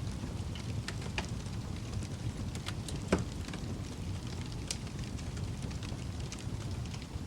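Wood fire crackling in a fireplace: a steady low rumble of flames with scattered sharp pops and snaps, the loudest pop about three seconds in.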